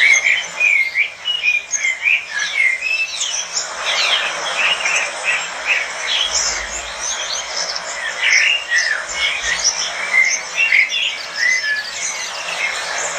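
A flock of caged lovebirds chattering, with many short, high chirps overlapping continuously.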